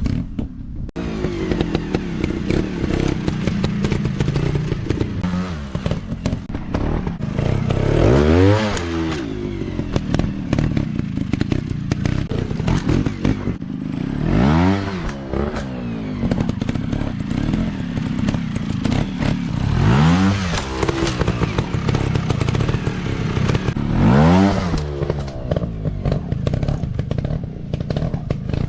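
Dirt bike engines running on a trail and blipped hard four times, each rev rising sharply in pitch and dropping back. Clattering and scraping runs throughout.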